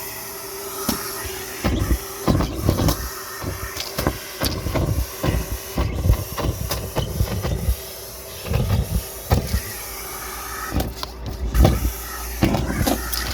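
Car wash vacuum running with a steady hiss and hum while it sucks up trash. Frequent sharp clicks, rattles and knocks come from debris being pulled into the nozzle and hose.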